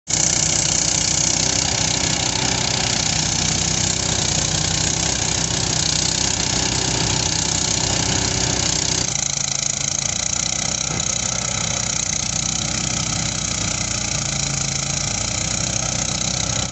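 Engine-driven rice threshing machine running steadily, its engine hum under a dense hiss. The sound changes abruptly about nine seconds in, the lower hum thinning out.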